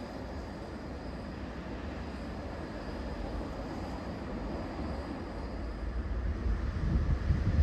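A train rumbling as it approaches, with the low rumble slowly growing louder and swelling near the end. Wind buffets the microphone.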